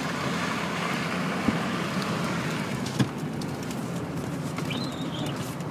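Steady engine and tyre noise inside the cab of a four-wheel-drive vehicle driving on a plowed, wet snowy street, with two faint knocks about a second and a half and three seconds in.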